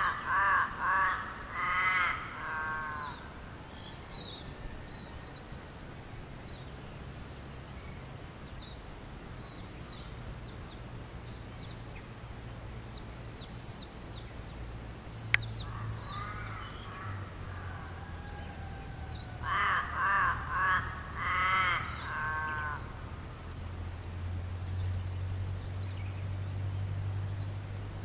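A large bird calls in a run of four or five loud, evenly spaced calls, and gives a similar run again about twenty seconds later. Faint high chirps of small birds come in between, and a low steady hum runs underneath.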